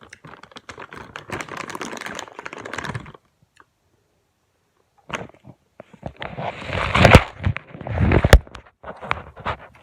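Items being handled: a stretch of rustling and light clatter, a short pause, then louder clatter with a few sharp knocks about seven and eight seconds in.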